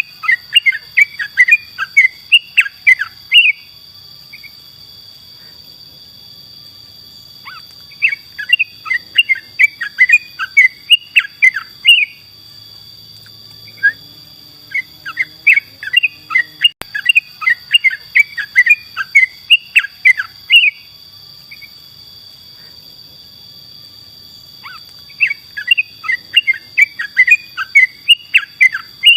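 Yellow-vented bulbul (trucukan) singing in four bouts of rapid, bubbly chattering notes, each bout a few seconds long with pauses between. A steady high-pitched whine runs underneath.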